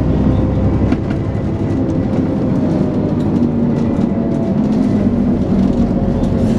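Dennis Trident 2 double-decker bus heard from on board: the diesel engine running under way with a steady whine over it, the low engine note dropping about a second in, and interior rattles clicking throughout.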